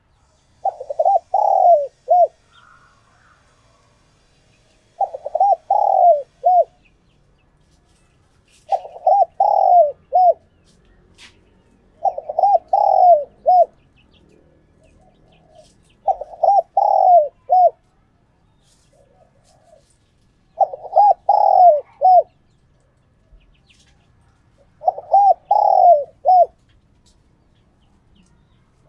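Spotted dove cooing: seven phrases about four seconds apart, each a run of quick curved coos about a second and a half long ending in a short separate note. This is the territorial call of a tame decoy bird, used to stir up wild doves.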